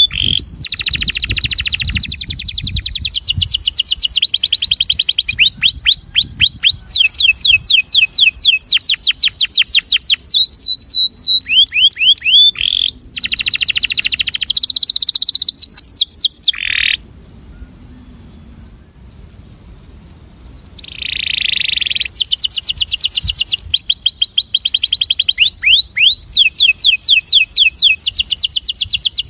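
Male domestic canary singing its breeding-season courtship song: fast trills of rapidly repeated down-slurred notes, switching to a new trill every second or two. The song breaks off for about four seconds just past the middle, then resumes.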